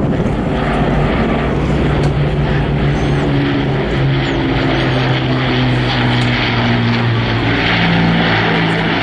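Supermarine Spitfire Mk XIX's Rolls-Royce Griffon V12 engine and propeller droning steadily as the aircraft flies its display. The engine note rises in pitch near the end.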